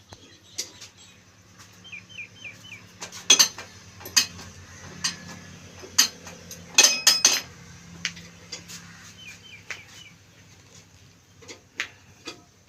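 Sharp metallic clanks and clinks: a few scattered single knocks, then a quick cluster of three or four about seven seconds in. A small bird chirps a few short notes twice.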